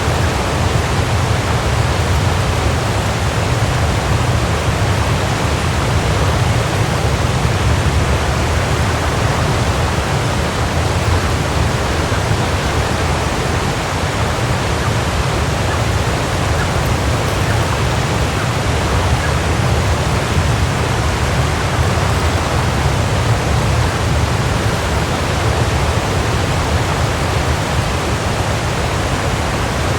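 Waterfall, water falling and rushing in a steady, unbroken roar, heaviest in the low end.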